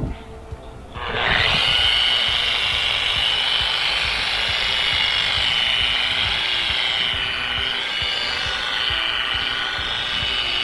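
An electric polishing buffer starts up about a second in and runs steadily with a high whine that wavers a little, its pad working Mothers polish on a stainless aircraft exhaust stack.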